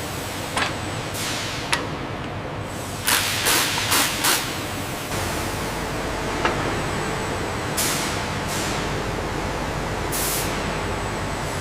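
Factory machinery running with a steady hum, broken by short hisses of released air: a loud cluster of four about three to four seconds in, and single ones near the start and later. A few sharp clicks sound between them.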